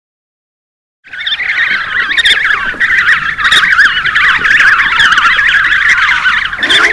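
Dolphins whistling: a dense chorus of many overlapping, wavering whistles with scattered clicks, starting about a second in after a silent gap.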